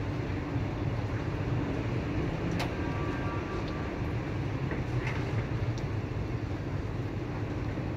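Steady rain with a low, even rumble of city traffic, and a few sharp ticks, one about two and a half seconds in and one about five seconds in.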